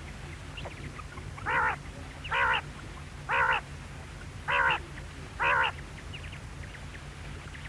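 Quail calling: five short, harsh notes about a second apart, each lasting about a third of a second.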